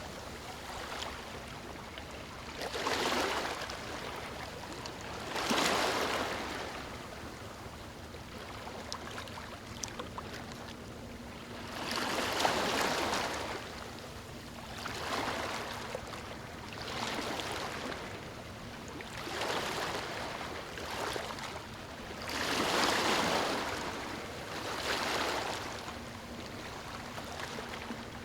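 Small waves lapping on a beach: soft washes of water that swell and fall back every two to three seconds, with a calmer few seconds between the swells in the middle.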